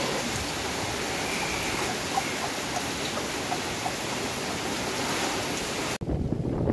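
Heavy tropical rain falling steadily, a dense even hiss. About six seconds in it cuts off abruptly to a low, gusty rumble of wind on the microphone.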